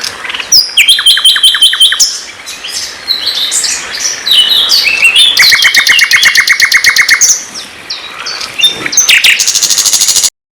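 White-rumped shama (murai batu) singing a loud, varied song: fast runs of repeated notes, trills and whistled phrases following one another, cutting off abruptly near the end.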